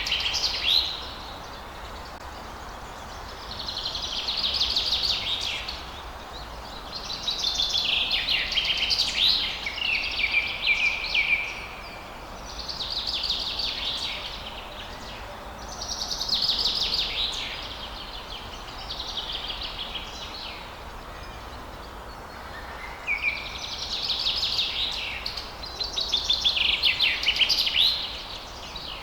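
Songbird singing at dawn: bright warbling, trilled phrases, each about two to three seconds long, repeated after short pauses about eight times, over a faint steady background hum.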